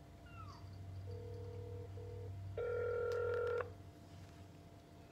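Smartphone on speakerphone sounding call tones as it places a call: a faint steady tone about a second in, broken once, then a louder tone lasting about a second.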